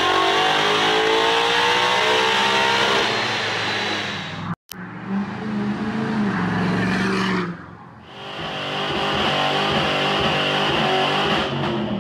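A run of engine clips cut together. First a Fox-body Mustang on a chassis dyno, revving up with rising pitch at full throttle; it cuts off abruptly. Then a lifted diesel pickup accelerating hard. In the last third, a Mustang doing a burnout, engine held high under a steady tire squeal.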